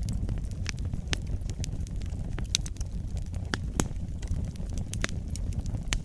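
Wood fire burning: a steady low rumble of flame under frequent sharp crackles and pops at irregular intervals, a few louder ones about two and a half and four seconds in.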